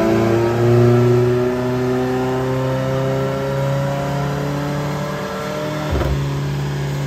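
Perodua Myvi's four-cylinder engine under load on a chassis dyno, its revs climbing slowly and evenly through a pull. About six seconds in there is a short knock, and the engine note then holds steady.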